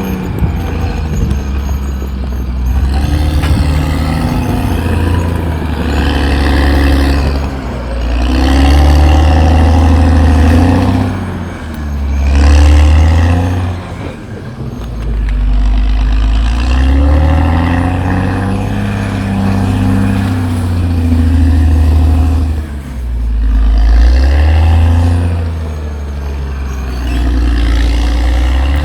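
Cat D6R XL bulldozer's diesel engine running hard, its pitch and loudness rising and falling every few seconds as it takes load and eases off.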